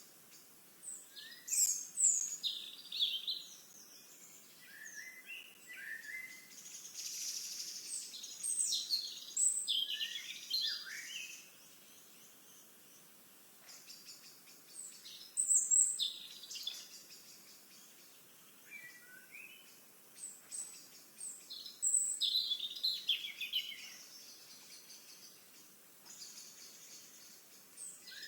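Songbirds singing: several bursts of quick, high, sliding notes, about a second in, around ten seconds in, near sixteen seconds and again past twenty seconds, over a faint steady hiss.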